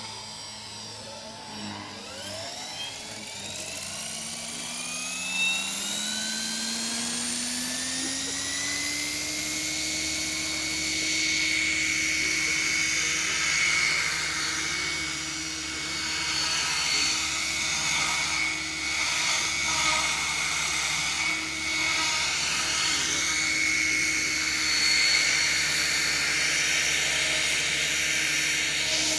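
Electric motor and rotor of a Gaui Hurricane 425 radio-controlled helicopter spooling up: a whine rising in pitch over the first eight seconds or so, then holding steady at flying speed as the level swells and dips.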